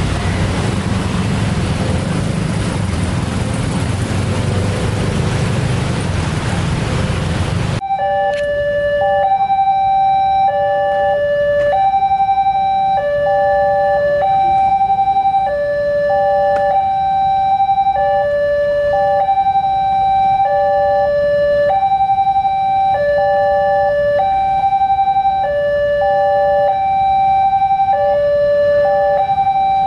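Loud rushing vehicle noise that cuts off abruptly about eight seconds in. A railroad crossing's electronic warning alarm follows, two tones alternating high and low about once a second.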